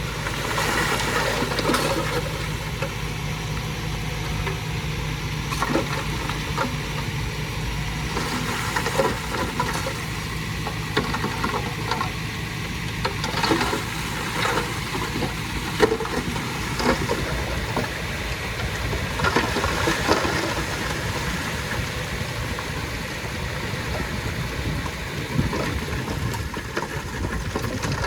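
Heavy earthmoving machinery at work: a diesel engine running under a steady rough noise, with irregular clanks, knocks and rattles throughout.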